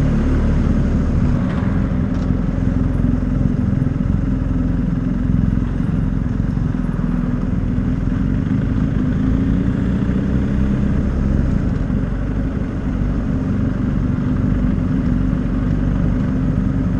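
BMW motorcycle-and-sidecar engine running steadily under way, with a slight easing about twelve seconds in.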